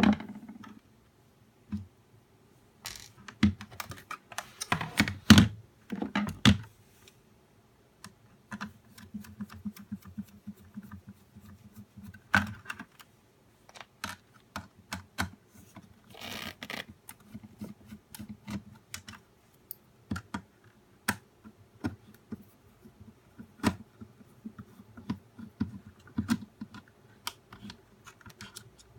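Irregular small clicks, taps and rattles of hands working on the plastic housing and parts of a nail dust collector as it is taken apart, with a brief scraping sound about halfway through.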